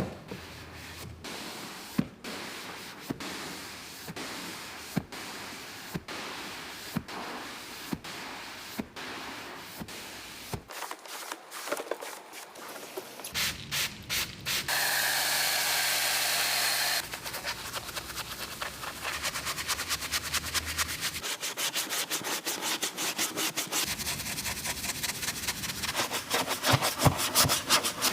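Scrubbing and rubbing strokes of car cleaning work, with many short clicks and, about halfway through, a steady hiss lasting about two seconds.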